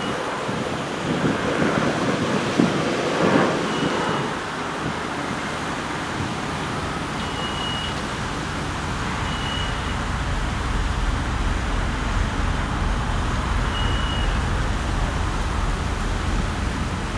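Wind buffeting the microphone over steady construction-site machinery noise, with a deeper rumble from about halfway through and a short high beep every few seconds.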